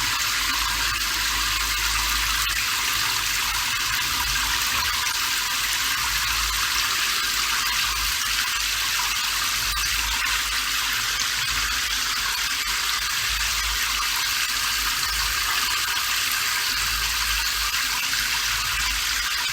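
Steady rain falling, an even hiss that holds unchanged with no breaks.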